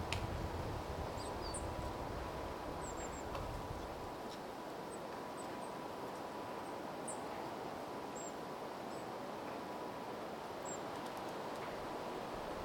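Steady wind and outdoor hiss with a wind rumble on the microphone in the first few seconds, and faint, short, high-pitched bird calls scattered throughout.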